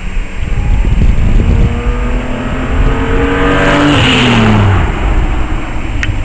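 1997 BMW 528i's straight-six, with S52 cams, Raceland headers and a Magnaflow muffler, accelerating past: the exhaust note climbs steadily in pitch for about four seconds, peaks as the car goes by, then falls away.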